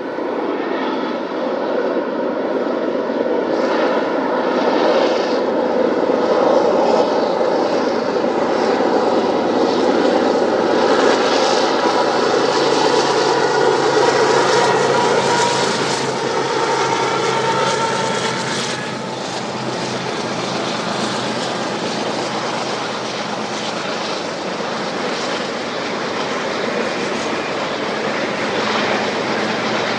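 Union Pacific diesel freight locomotives working past with a steady engine drone whose pitch slides slowly downward. It is loudest through the middle and eases off a little after about two-thirds of the way.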